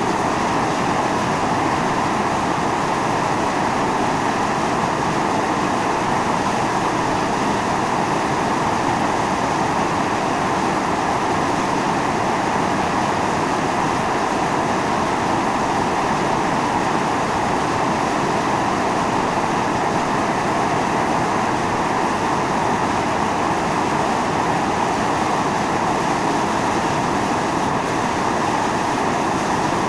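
Volcanic fumarole venting steam with a loud, steady rushing hiss that never lets up.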